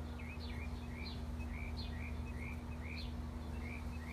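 Small birds chirping, short upward-sliding notes repeated two or three times a second, over a steady low hum.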